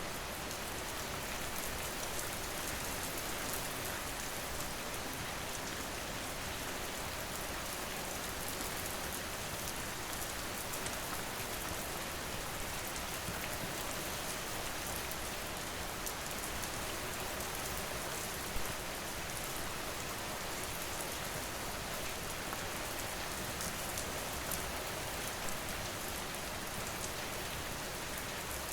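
Steady rain falling, with a few brief crackles of a wood fire, the sharpest about two-thirds of the way through.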